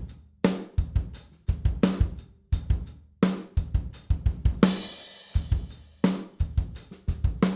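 Acoustic drum kit playing a steady groove of kick, snare and hi-hat, with a cymbal crash a little past halfway. It is heard through the close microphones blended with a U47 mono room microphone and a Blumlein pair, so the room's low end and ambience are part of the sound.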